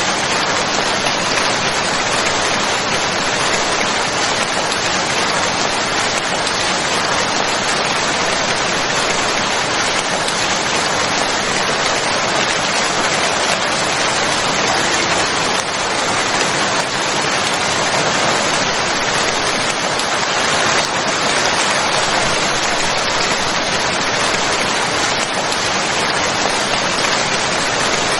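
Steady, dense rain falling, an even hiss of many drops with no pauses.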